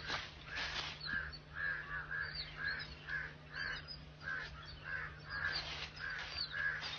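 Wild birds calling repeatedly: short, harsh calls about twice a second, with higher chirps over them and a steady low hum beneath.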